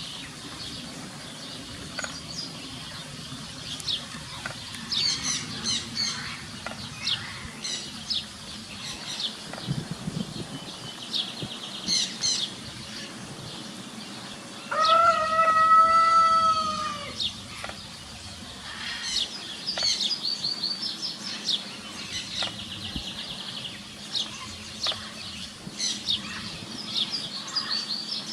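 Small songbirds chirping and twittering, with one long crowing call from a rooster about halfway through, held for a couple of seconds.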